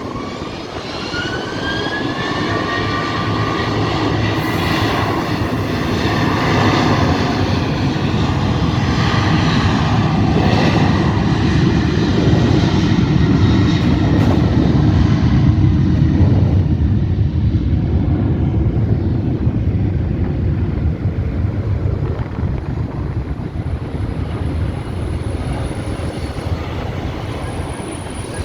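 Jet airliner passing low overhead: a whining tone glides at the start as it approaches, the engine rumble swells to its loudest about halfway through, then slowly fades away.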